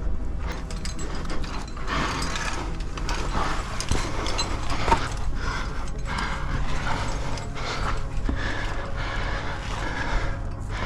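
Irregular scraping, rustling and clinking of a climber's clothing and metal gear against the rock while working up a sandstone chimney.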